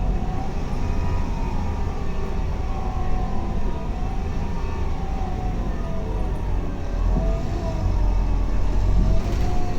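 Scania K280UB bus running, a steady low engine rumble with a whine that rises and falls in pitch. It gets louder near the end.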